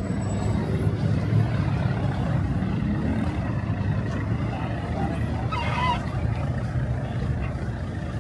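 Street ambience dominated by a steady low rumble of passing traffic, with a short pitched sound, a call or voice, about five and a half seconds in.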